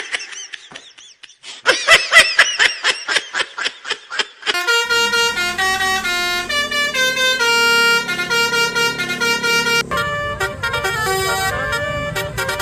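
A telolet-style multi-tone bus air horn playing a melody of held notes that step from pitch to pitch. It is preceded by about four seconds of a fast warbling chirp repeating about five times a second.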